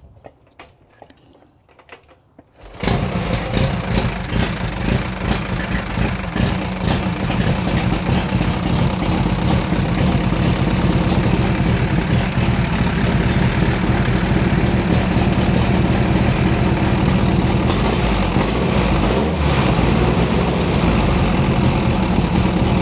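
1929 Henderson KJ's 80-cubic-inch inline four-cylinder engine kick-started cold, catching on the first kick about three seconds in after a few faint clicks, then running steadily.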